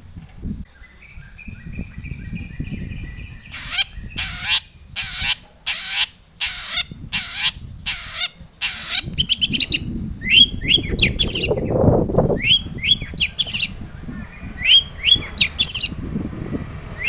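Long-tailed shrike (cendet) singing: a few faint whistled notes, then a series of harsh rasping calls about twice a second, then clusters of quick upward-sweeping chirps.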